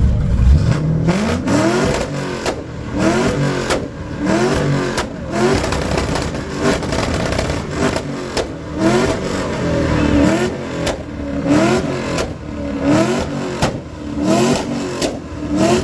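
A car's engine revved over and over through a loud exhaust, blipped up roughly once a second, with sharp cracks between the revs, for an exhaust competition.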